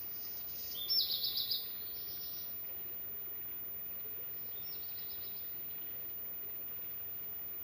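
A songbird singing short, fast trilled phrases of rapidly repeated high notes: a loud phrase about a second in and a fainter one near the middle, over a steady background hiss.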